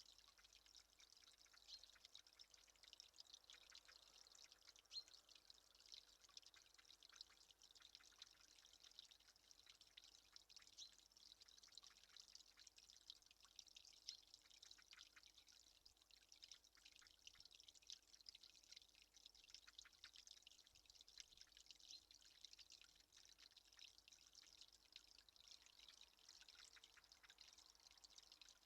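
Faint dripping and trickling water: many small, irregular ticks over a soft steady hiss.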